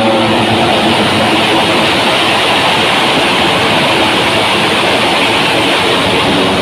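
MotoGP racing motorcycle engines at full speed, a loud, dense, steady engine noise as bikes pass.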